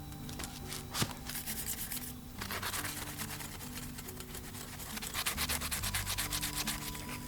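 Barbecue brush scrubbing the metal grill net of a fire pit in rapid back-and-forth strokes, with a sharp click about a second in and the scrubbing growing louder about halfway through.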